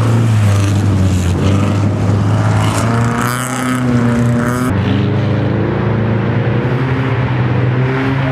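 BMW E30 318is rally car's four-cylinder engine held at high revs as the car slides sideways on ice, the pitch climbing briefly about three seconds in.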